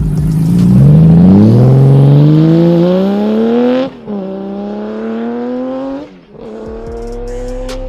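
Honda CBX 1047cc inline six-cylinder engine, exhausting through a stainless six-into-two system, accelerating hard through the gears. The pitch climbs steadily, drops at an upshift about four seconds in and again about six seconds in, then climbs once more; the first gear is the loudest.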